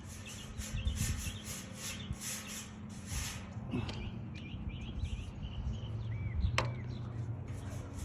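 Brush strokes of gray primer on a chimney cap: a rhythmic scratchy rubbing, about three strokes a second, with a short lull midway.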